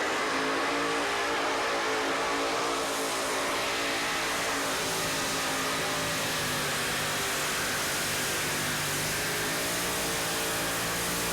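A pulling truck's engine running flat out at high revs during a pull, its pitch held nearly steady throughout.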